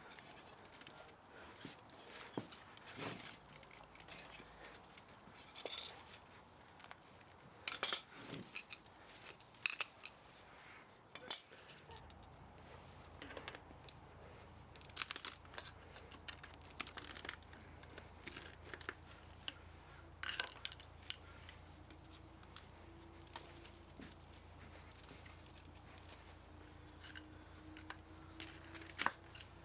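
Irregular clicks, scrapes and crinkling of hand work on an electric pump motor being stripped for scrap metal, with metal parts and tools knocking and rubbing.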